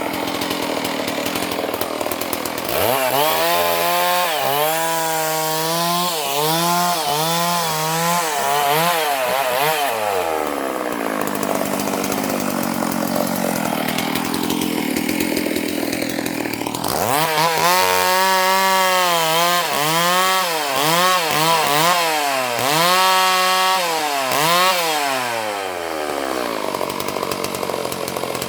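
Chainsaw cutting a tree, its engine revving up and dipping repeatedly as the chain loads in the wood. It drops back for several seconds in the middle, then revs and cuts again.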